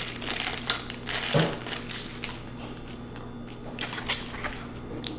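Close-up crunching and crinkling, with scattered clicks and a soft knock about one and a half seconds in, over a steady low electrical hum.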